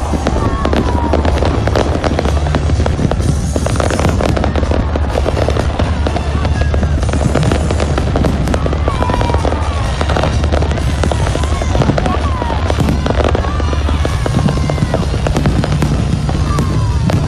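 Fireworks going off nonstop: dense rapid crackling and popping, over a steady low rumble.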